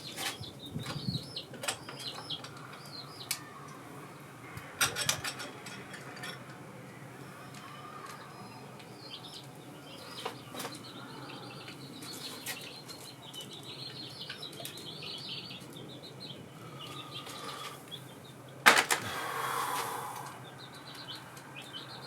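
Scattered metallic clicks and taps of tools and engine parts being handled during an engine teardown, with one loud clatter a little past 18 seconds. Birds chirp faintly in the background.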